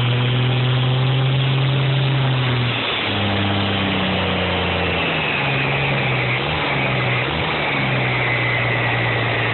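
Engine idling on its first start-up, its idle speed dropping about three seconds in and dipping briefly twice later, with a faint high whine slowly falling in pitch in the second half.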